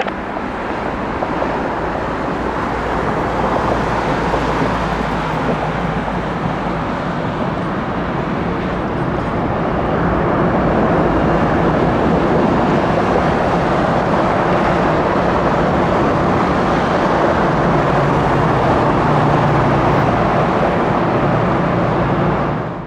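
Jet airliner's engines running close by: a steady rushing noise with a low hum, growing louder about ten seconds in and holding.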